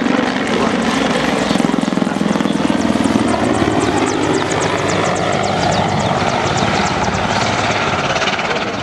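Mil Mi-24 Hind helicopter in flight: the loud, steady noise of its twin turboshaft engines under the rapid, even chop of the main rotor blades, easing off slightly near the end.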